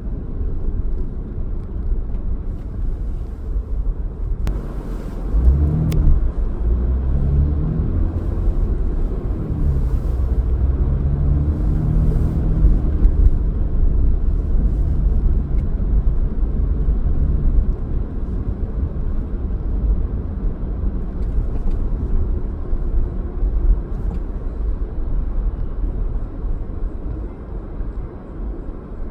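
Car driving on city streets: a steady low rumble of engine and road noise, with an engine note that rises and falls between about five and thirteen seconds in.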